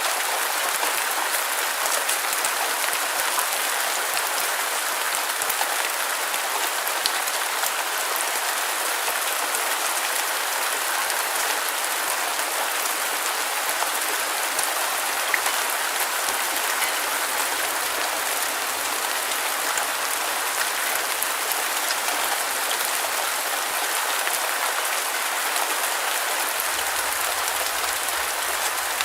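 Steady rain falling, an even hiss of countless drops pattering on a surface, with no change in strength.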